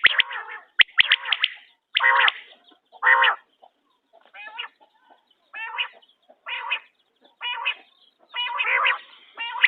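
Quail calling over and over, short sharp phrases of quick notes about once a second.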